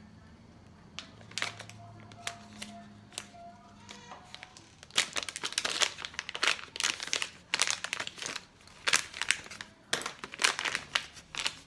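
Packaging crinkling and crackling in quick bursts as makeup brushes are unwrapped, mostly in the second half.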